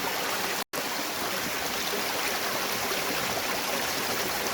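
Waterfall rushing steadily, an even hiss of falling water, broken once by a split-second dropout a little under a second in.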